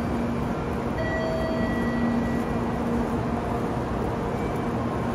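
Steady noise of a Shinkansen train standing at a station platform, with its equipment humming at one low pitch and a few short, faint higher tones over it.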